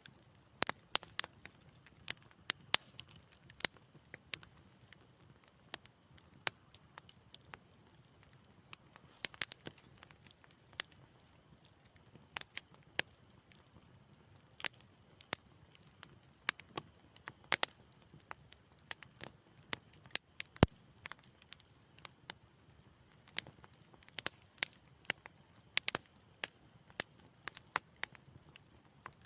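Wood fire in a fireplace crackling: irregular sharp pops and snaps, some louder than others, over a faint low hiss of the flames.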